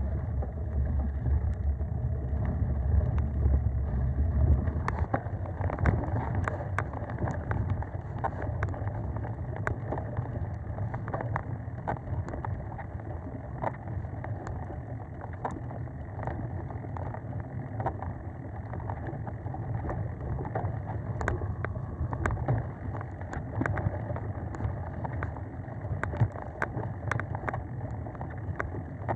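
Mountain bike riding over dirt singletrack: wind rumble on the camera microphone and tyre noise, heaviest in the first few seconds. From then on the bike gives frequent sharp rattles and clicks over bumps.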